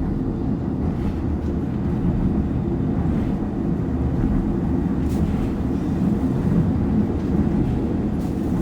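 Steady low rumble of a moving passenger train heard from inside a railroad car, with the noise of the wheels on the rails and the rocking of the car.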